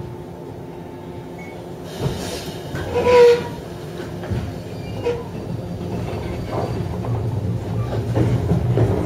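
Inside a JR 103 series electric multiple-unit train: a steady hum while it stands, a knock and a short loud pitched blast about two to three seconds in, then low running noise that grows steadily louder as the train starts off.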